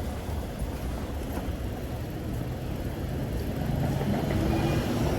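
City street traffic with a low rumble of wind on the microphone during a bike ride, and a vehicle engine growing louder from about three and a half seconds in.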